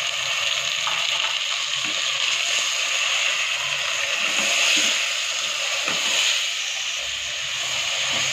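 Chicken, tomato and spices sizzling steadily in hot oil in a metal pot, with a few light knocks of a stirring spoon against the pot.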